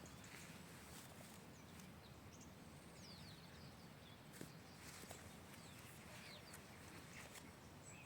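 Faint outdoor ambience with scattered short, high chirps of small birds and a single light tap about four seconds in.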